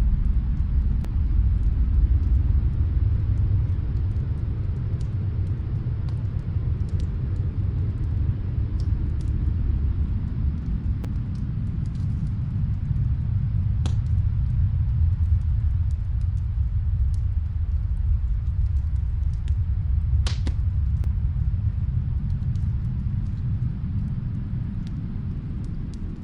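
Steady low rumble of snowstorm wind with a wood fire crackling faintly in another room: scattered sharp pops, a louder one about halfway through and another about three quarters through.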